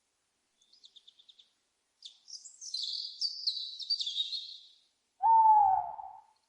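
Owl and bird calls. A quick run of about eight short, high chirps comes first, then a couple of seconds of high twittering. Near the end comes one loud call lasting about a second and falling slightly in pitch, the loudest sound here.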